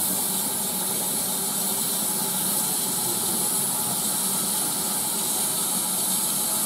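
Steam locomotive hissing steadily as steam escapes, an even high-pitched hiss with a faint low hum beneath it.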